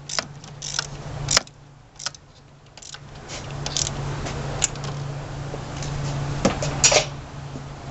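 Light metallic clinks, rattles and knocks of intake parts and hose clamps being handled and fitted, over a steady low hum.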